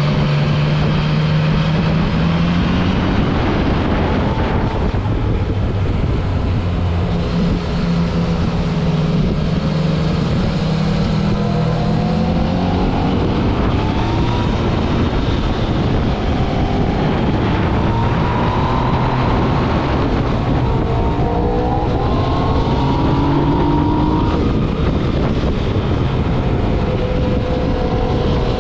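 Motorcycle engine running on the move, its revs climbing and dropping again and again through gear changes.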